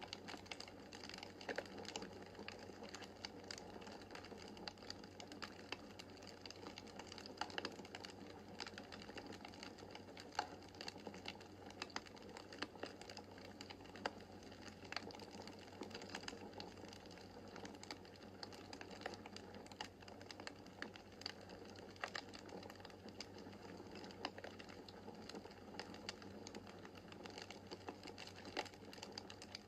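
Wood fire crackling in a fireplace: a steady soft rush of flame with many small, irregular snaps of burning logs, a few of them sharper and louder.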